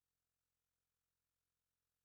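Silence: the soundtrack is essentially empty, with only a faint, steady noise floor.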